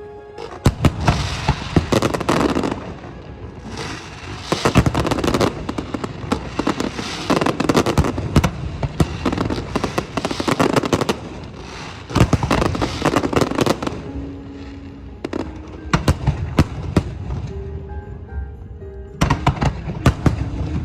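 Aerial fireworks going off in dense volleys of bangs and crackles, each lasting a second or three with short lulls between. Music with held notes plays underneath.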